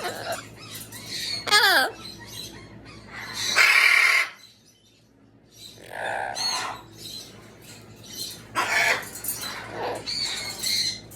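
Amazon parrot giving a string of squawks, warbling whistles and chatter. The loudest is a harsh squawk a few seconds in, and there is a short pause about halfway through.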